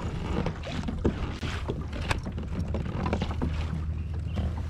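Wind rumbling steadily on the microphone, with scattered knocks and clicks of gear being handled on a kayak as the fish stringer is brought up.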